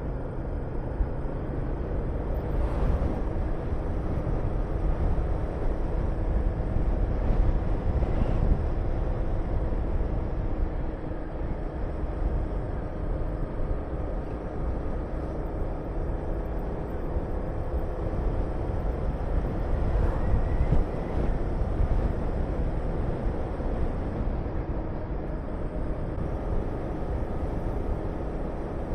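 Honda VTR250's V-twin engine running as the motorcycle rides along, under a heavy low rumble of wind rushing past the microphone.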